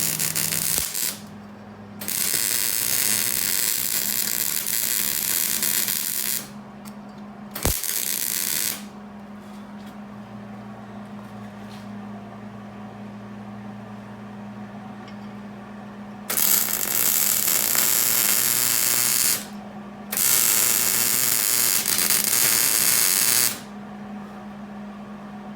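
Hobart Handler 190 MIG welder arc crackling in five bursts of about one to four seconds each, with a long pause in the middle, as beads are laid on a rusted exhaust flange. A steady low hum runs underneath throughout.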